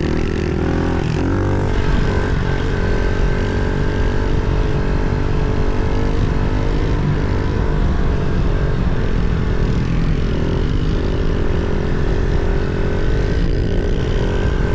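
Pit bike engine running under throttle at a steady cruise. Its pitch rises slightly over the first couple of seconds, then holds.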